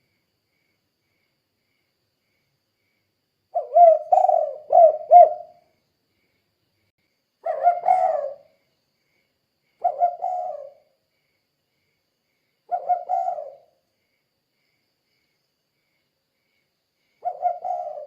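Spotted dove (tekukur) cooing in the 'kuk 2' style used as a lure for other doves. About five short coo phrases come a few seconds apart, the first about three and a half seconds in and the longest, a run of several quick coos, at the start.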